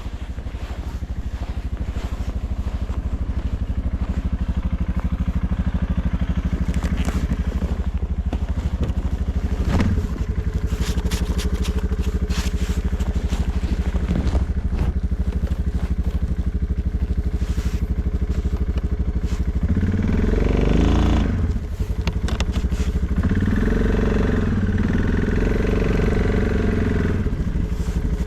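Suzuki KingQuad ATV engine running steadily under load, revving up about twenty seconds in and again a few seconds later, with scattered knocks and scrapes from plowing snow.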